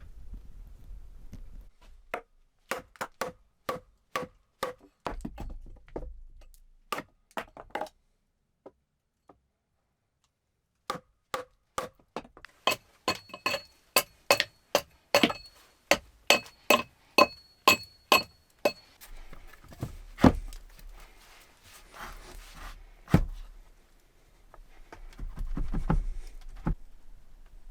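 Repeated blows of a hand tool on wood, about two a second in two runs separated by a short pause; in the second run many blows carry a short metallic ring. A few scattered knocks and rustling follow near the end.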